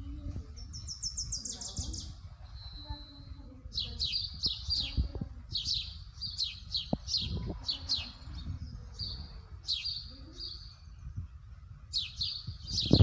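Songbirds calling: a quick trill of high notes about half a second in, then from about four seconds in repeated sharp, high chirps in bunches, over a steady low rumble.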